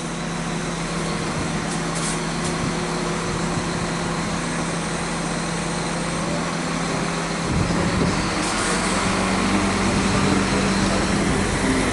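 Diesel passenger train's engine running steadily. About seven and a half seconds in, its note steps up and grows slightly louder as it powers up.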